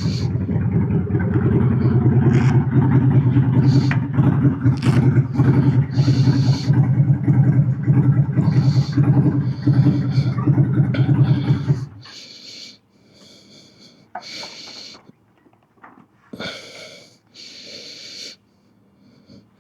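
Motorcycle engine idling with an even low pulse, then switched off about twelve seconds in. Afterwards come a few short hissing bursts with quiet gaps between them.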